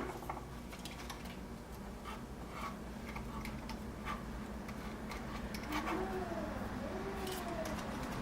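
Faint scattered clicks and light taps of small tools and parts being handled at a workbench during soldering repair of a refrigerator control board, over a steady low hum. Two faint wavering squeaks come about six and seven seconds in.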